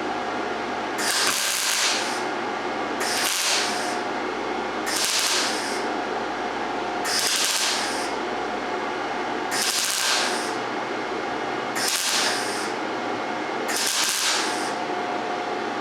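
MIG welder arc, short-circuit transfer with argon/CO2 mix, crackling in seven short stitch welds of under a second each, about two seconds apart, over a steady hum. The machine is set to 18 volts and wire speed 105, a setting the welder still finds is not melting in enough.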